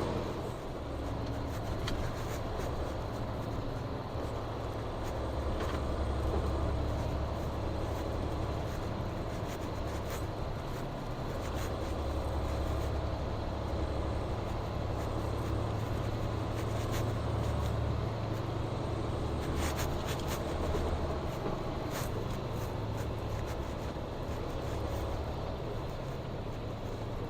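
Steady low rumble of a vehicle's engine and tyres while it is being driven, with a few faint clicks scattered through.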